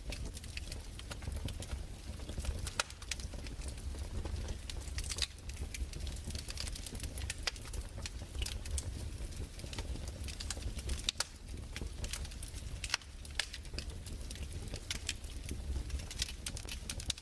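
Fireplace crackling: irregular sharp pops and snaps from burning wood over a low steady rumble.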